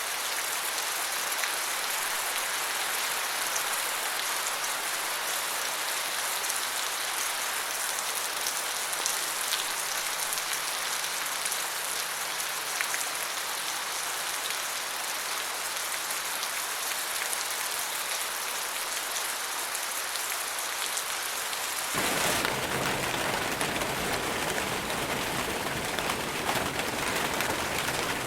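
Steady rain falling. Near the end it changes suddenly to louder, fuller rain.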